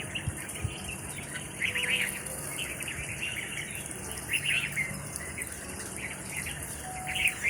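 Birds calling in short chattering bursts, three times, over a steady high-pitched hiss.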